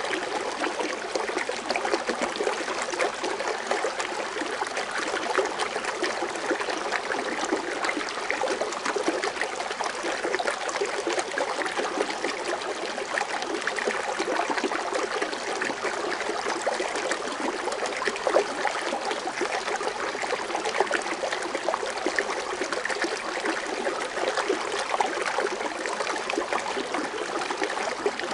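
Foaming water fountain: water splashing and trickling steadily into a pool, a dense continuous patter of small splashes.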